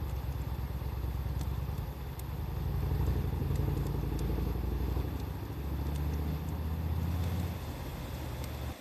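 Wood fire crackling with scattered sharp pops, under a loud low engine-like rumble that cuts off abruptly near the end.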